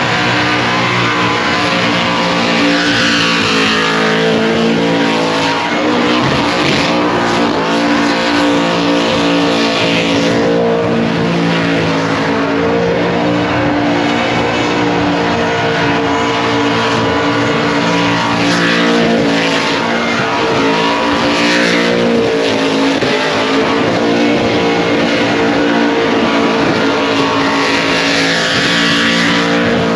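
A car doing a burnout: the engine held at high revs with small rises and dips in pitch, over the continuous hiss and squeal of spinning rear tyres.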